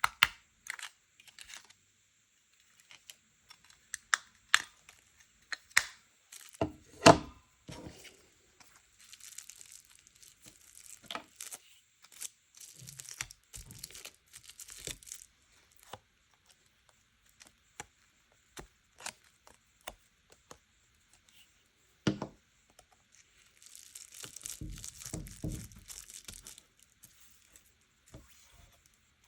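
Paper being handled: stretches of rustling and tearing between scattered sharp taps and clicks.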